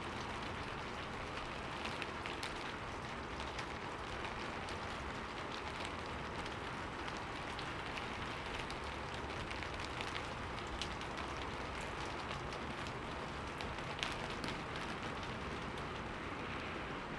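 Steady rain falling, with a dense hiss and scattered individual drop ticks; one tick about 14 seconds in stands out from the rest.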